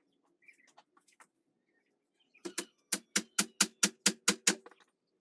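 Hammer blows: a quick, even run of about ten sharp, ringing strikes, about four or five a second, beginning halfway through, after a few faint clicks.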